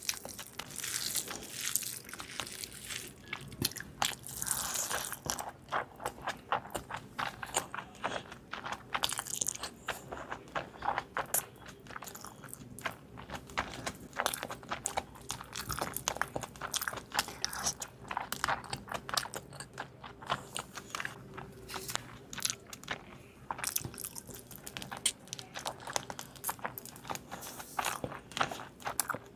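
Close-up mukbang eating sounds: a person biting into and chewing crunchy fried chicken, with frequent sharp, irregular crunches.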